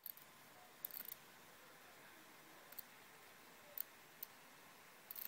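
A 2010 13-inch MacBook Pro making faint, irregular high-pitched static crackles: a few short ticks and small clusters over a faint steady hiss. The owner cannot place the noise and suspects the power supply or logic board.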